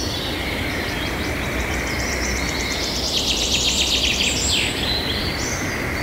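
Birdsong, with fast runs of repeated high chirps and trills, over a steady rushing background noise. The birdsong is busiest about three to five seconds in, and the sound cuts off suddenly at the end.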